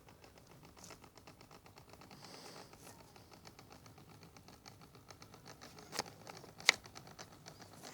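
Lima model Class 55 Deltic locomotive creeping along the track at very slow speed, its motor vibrating and the model shaking, giving a faint, fast, even ticking and rattling. Two sharp clicks come about six seconds in, the second one the loudest.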